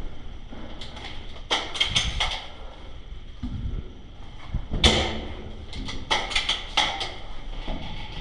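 Airsoft gun firing in short strings of rapid, sharp shots, several shots a fraction of a second apart, with pauses of a second or two between strings.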